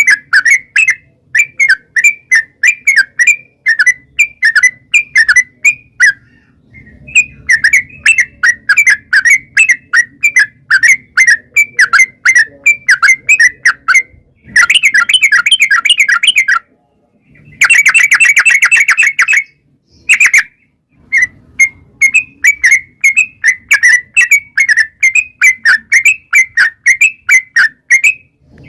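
Yellow-vented bulbul (trucuk) calling: a run of quick, loud chirping notes about three to four a second, broken twice around the middle by long rapid rattling trills. A faint low hum lies underneath.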